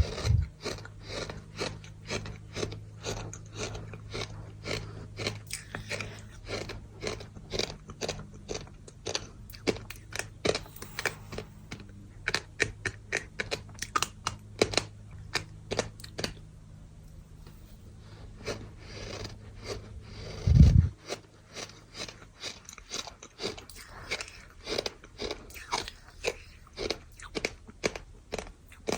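Chunks of dry and damp bird sand being crushed in a rapid run of gritty crunches, with a short lull past the middle. A single loud dull thump comes about two-thirds of the way through.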